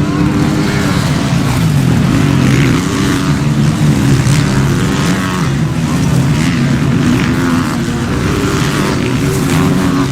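Motocross bike engines racing, their pitch rising and falling over and over as the riders accelerate and back off.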